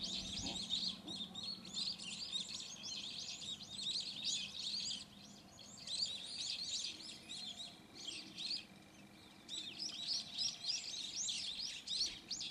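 Many small birds chirping at once, a busy run of short, high, overlapping calls, with brief lulls about five and nine seconds in.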